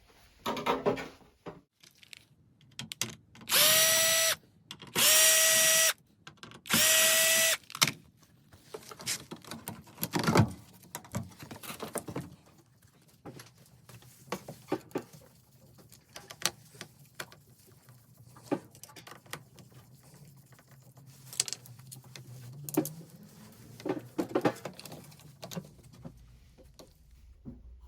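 Electric drill running in three short bursts of about a second each, a few seconds in, each spinning up quickly to a steady whine. Scattered clicks and knocks of tools and parts being handled follow.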